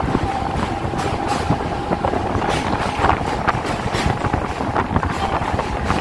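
Electric suburban train (EMU) running at speed over a steel truss bridge, heard from inside the coach by the open door: a steady rumble and rattle with repeated sharp clacks from the wheels and rails, and a steady high whine that fades out about two seconds in.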